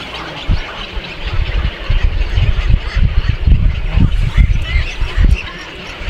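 Birds calling in a busy, continuous chatter, over irregular low thuds and rumbling on the microphone that grow stronger from about two seconds in.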